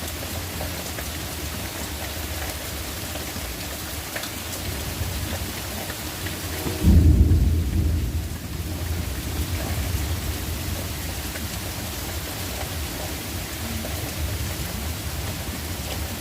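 Steady rain falling, with a loud, deep rumble of thunder about seven seconds in that eases off over a couple of seconds.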